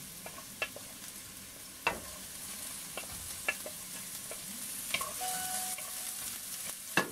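Diced carrots sizzling in hot canola oil in a wok as they are scraped in off a plate, the sizzle building slightly. A wooden spoon knocks sharply against the plate and pan several times.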